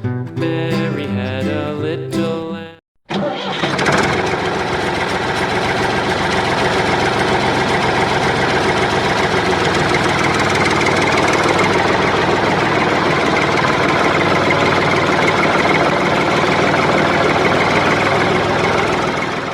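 A few seconds of background music that stops, then after a short gap a small motor or engine starts and runs steadily and loudly for about sixteen seconds before cutting off near the end.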